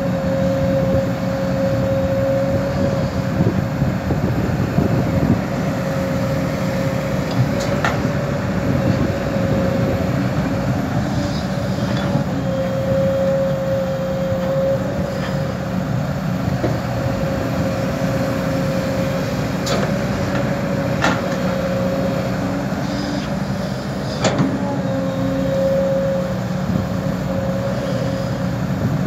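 Kobelco SK200 hydraulic excavator's diesel engine running under load, with a steady whine that wavers slightly as the hydraulics work. A few sharp knocks come through, about eight seconds in, twice around twenty seconds, and near twenty-four seconds.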